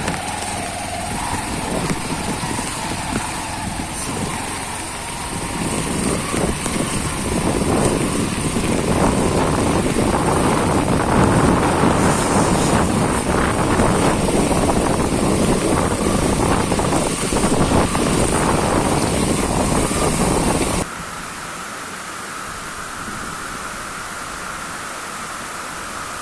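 Motorcycle running on an off-road ride, its engine heard under wind rushing over the microphone and growing louder about eight seconds in. About 21 seconds in it cuts off abruptly to a quieter steady hiss.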